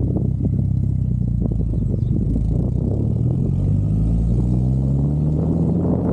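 Car engine running, its pitch rising steadily through the second half as it accelerates.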